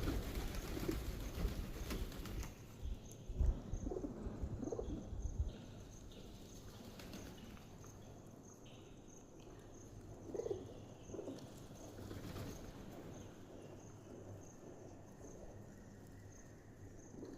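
Pigeons cooing in low, soft calls, with bursts of wing flapping. The first five or six seconds are louder and busier, and the rest is quieter with an occasional coo.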